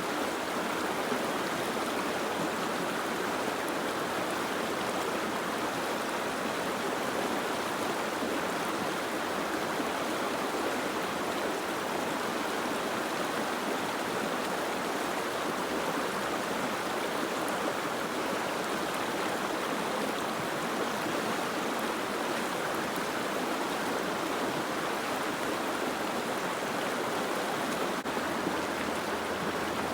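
Steady soft rain falling, an even unbroken hiss.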